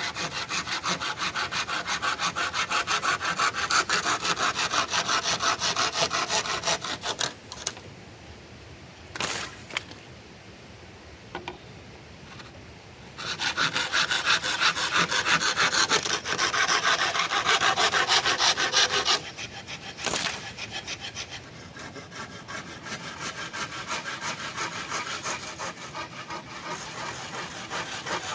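A saw cutting wood in steady back-and-forth strokes, in two loud spells with a pause and a few knocks between them, then lighter sawing near the end.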